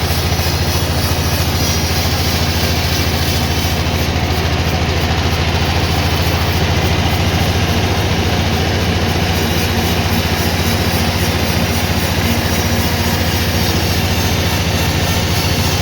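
Sawmill machinery running steadily, with a loud, even low hum and a wash of mechanical noise.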